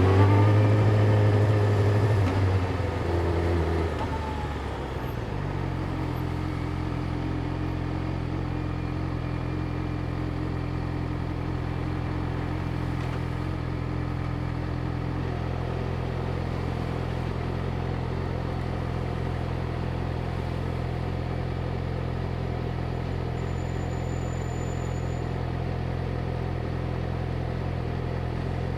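Yamaha YZF-R6's inline-four engine under throttle, its note falling away over the first few seconds as the throttle closes, then idling steadily.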